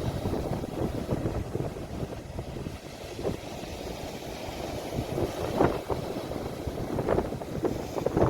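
Sea waves washing, mixed with low rumbling wind noise on a phone's microphone; a few brief crackly swells in the second half.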